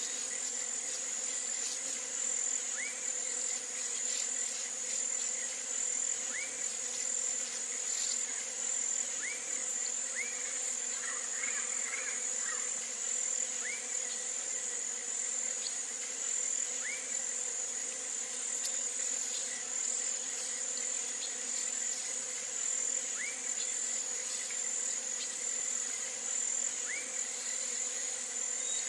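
Steady high-pitched chorus of insects, with short single chirps from another calling animal every few seconds.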